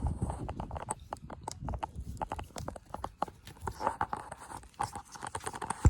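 Hands working plastic truck trim and a light fitting: many irregular light clicks and taps with no steady rhythm.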